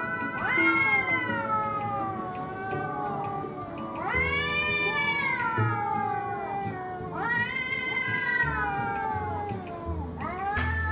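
Domestic cat meowing: four long, drawn-out meows, each rising then falling away in pitch, over a soft background music bed.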